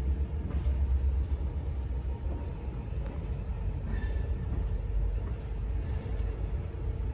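Freight train of boxcars rolling slowly along the track, a steady low rumble, with one brief sharp noise about four seconds in.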